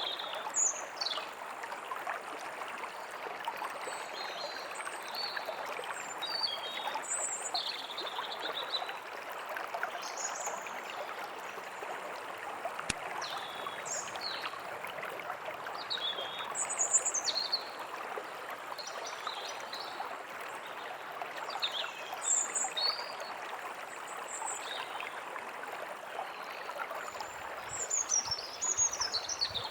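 Steady running stream, with small birds chirping and whistling on and off over it.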